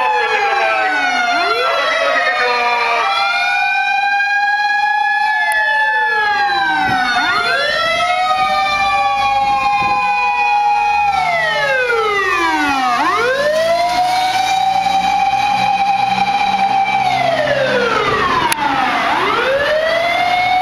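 Fire engine's motor siren wailing in slow cycles: the pitch winds up, holds, then slides down, about every six seconds, four times.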